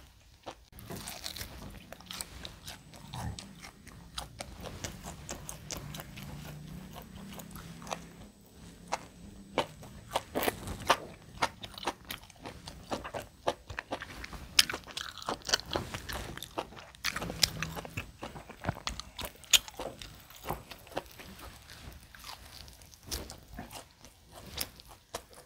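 A person chewing and biting tomahawk steak close to the microphone: wet chewing with many sharp, irregular crunches and mouth clicks. The meat is overcooked and a little dry.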